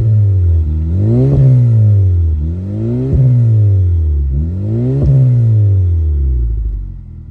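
Honda Civic Type R FK8's turbocharged 2.0-litre four-cylinder blipped three times through a full-titanium cat-back exhaust with twin resonators and mufflers: each rev rises and falls with a short click at its peak, then it settles back to idle near the end. The exhaust note stays deep and subdued for a car with a catless downpipe, bigger front pipe and turbo, peaking at about 97 decibels close up.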